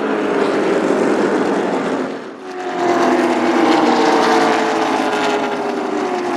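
NASCAR Cup cars' V8 engines passing by at speed, their note falling in pitch as they go past. The sound dips briefly about two seconds in, then another pack of cars passes.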